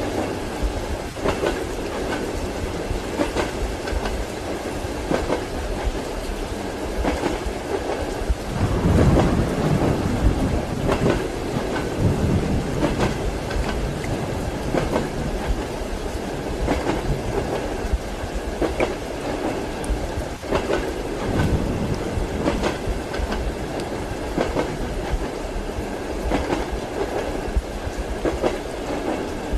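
Train wheels clacking rhythmically over rail joints, heard as from inside a passenger compartment, over a steady hiss of rain. A low rumble of thunder swells about nine seconds in, with a weaker one a little past twenty seconds.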